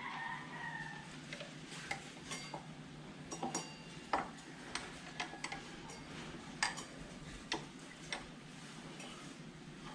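Irregular light metallic clicks and taps of brake caliper parts and hand tools being handled during a motorcycle front brake pad change, over a steady low background hum.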